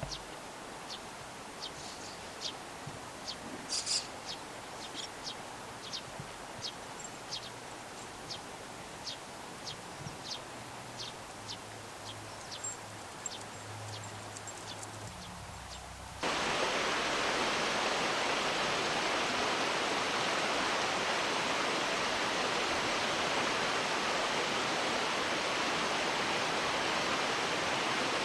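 Short, high chirps of juvenile Eurasian tree sparrows, repeated about one and a half times a second over a quiet background. About 16 seconds in, they are cut off by a sudden, much louder, steady rush of flowing river water.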